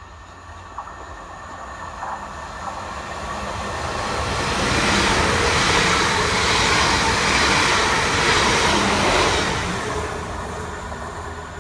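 South Western Railway electric multiple-unit train passing through the platform: its wheel and running noise builds steadily as it approaches, stays loudest for about four seconds while the carriages go by, then fades as it leaves.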